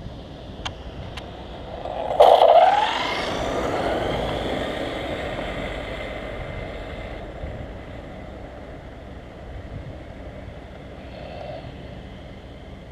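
Electric 1/5-scale RC monster truck running on 8S batteries, passing at full throttle on a speed run. About two seconds in its motor whine comes in suddenly and climbs in pitch as it speeds up, then its running noise slowly fades away.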